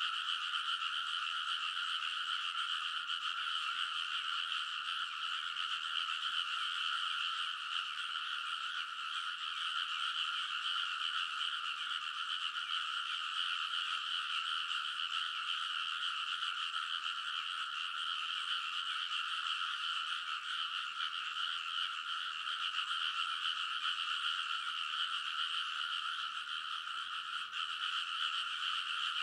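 A dense chorus of many frogs calling at once, merging into one steady, unbroken wall of sound with no pauses.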